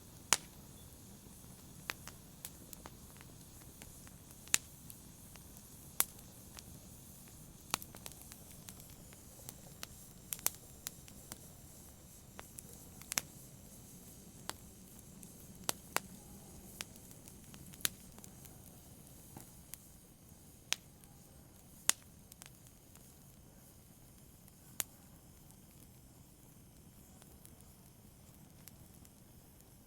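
Wood fire in a fireplace crackling: a soft steady hiss with sharp, irregular pops and snaps every second or two, fewer in the last few seconds.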